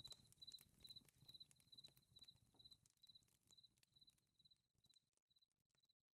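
Faint night ambience fading out: a cricket chirping steadily, a little over two chirps a second, over the soft pops of a crackling fire. Both die away near the end.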